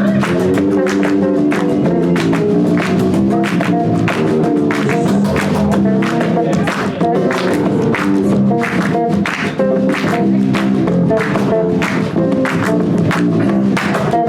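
A live band is playing. Drums keep a steady beat under held, pitched instrumental notes.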